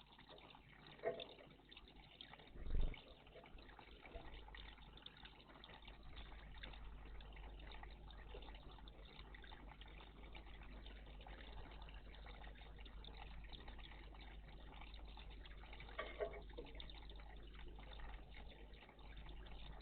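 Faint water trickling and splashing in a garden bird bath, with a few short knocks or splashes about a second in, near three seconds and around sixteen seconds.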